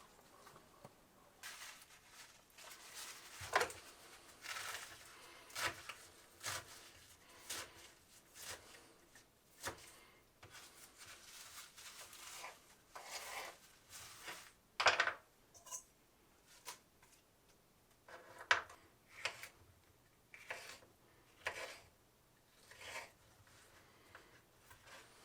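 Garden produce being harvested by hand: a run of short snips, rustles and rubs, one or two a second, with a couple of sharper knocks about three seconds in and near the middle.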